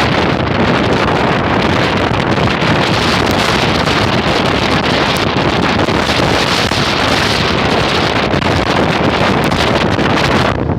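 Strong gale-force wind blasting across the microphone: a loud, steady rush of noise with no let-up, which stops abruptly at the very end.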